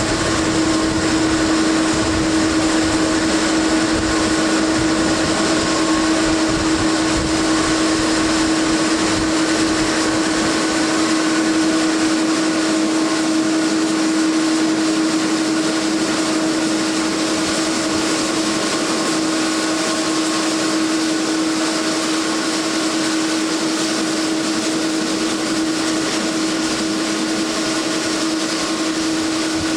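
De Havilland Canada Dash 8-400 turboprop engines and propellers running with a steady drone, one held tone with fainter overtones over a continuous hiss.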